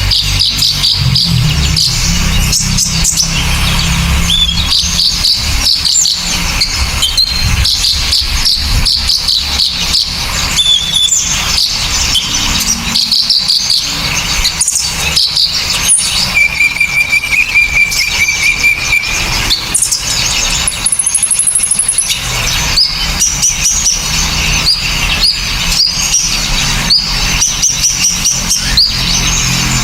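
Loud, dense, sharp chirping and twittering of several small songbirds, rapid notes overlapping throughout, with one held whistle about halfway through and a short very high trill soon after.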